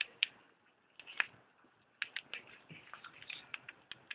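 Bonfire crackling: irregular sharp pops and snaps from burning paper, plastic and wood, coming thicker in the second half.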